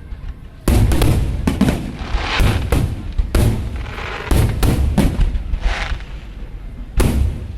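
Aerial fireworks shells bursting in quick succession, each sharp boom trailed by rumbling echo and crackle. There are about nine bursts, bunched in the first five seconds, with a final loud one about seven seconds in.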